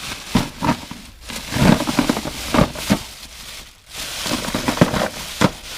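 Small trinkets and bits of jewelry clattering and rattling as a bag of them is poured out into a tray, in a run of uneven knocks and clicks that is busiest about two seconds in.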